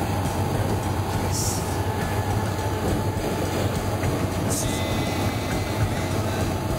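Diesel railcar running along the line, heard from inside the car: a steady engine drone and wheel-on-rail rumble, with two brief high hisses, about a second and a half and four and a half seconds in.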